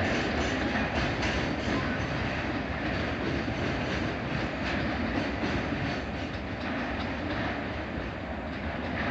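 Train running along the track, the wheels clicking over rail joints, its noise easing slightly near the end.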